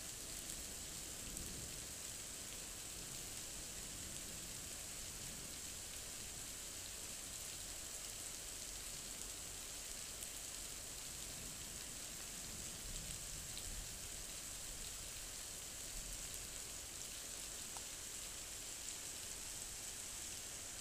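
Rain falling steadily during a thunderstorm: an even hiss with no thunder claps.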